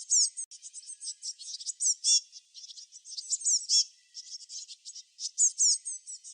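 Small songbirds chirping in a dense, overlapping chorus: rapid high chirps mixed with short downward-sweeping whistled notes, with no pause.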